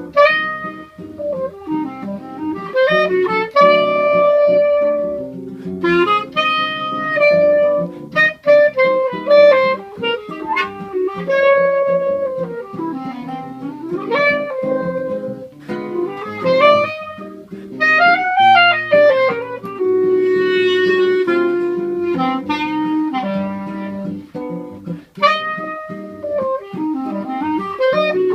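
Clarinet and seven-string guitar playing choro together: the clarinet carries the melody in held notes and quick runs, with the guitar plucking bass lines and chords beneath.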